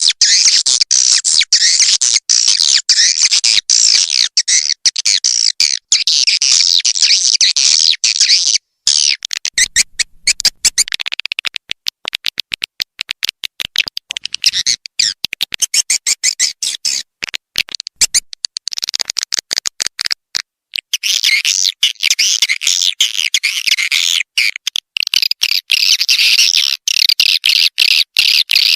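Edible-nest swiftlet call track: dense, rapid twittering chirps, the lure sound played at swiftlet houses to draw the birds in to roost and nest. The chatter thins out about a third of the way in and comes back full about three quarters in, with frequent abrupt cuts throughout.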